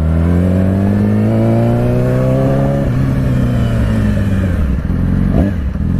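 Yamaha R6's inline-four engine accelerating, its pitch rising steadily for about three seconds, then dropping sharply at a gear change and running on at lower revs, with a short rev blip near the end.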